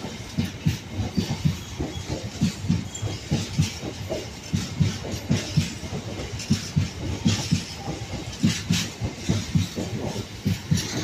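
Loaded container flat wagons of a freight train rolling past at close range, their wheels clattering over the track in a continuous, uneven run of low clunks over a steady rumble.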